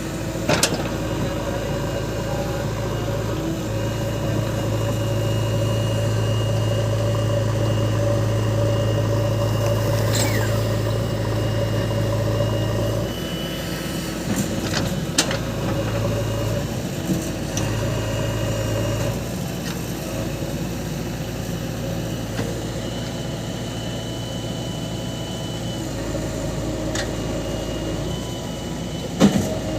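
JCB 3DX backhoe loader's diesel engine running steadily, with a few sharp metallic clanks. The engine note drops about halfway through.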